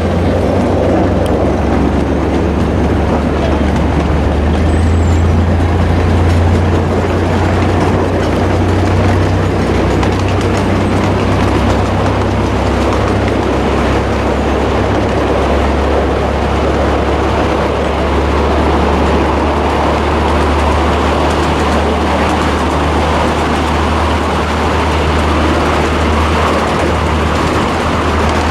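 Train running, a steady low drone under a continuous wash of rail noise.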